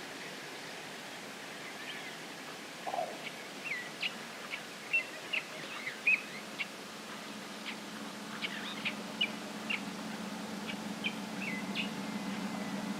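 Birds chirping outdoors: a string of short, high calls, several a second at their busiest, over steady outdoor hiss. About halfway through, a steady low hum comes in underneath.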